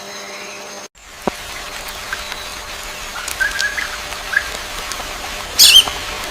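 Birds chirping over a steady outdoor background, with a short break in the sound about a second in. Scattered short chirps follow, then one loud, high call that falls in pitch near the end.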